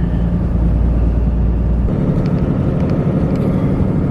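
Steady low rumble of a car driving along a road, tyre and engine noise, changing in tone about two seconds in.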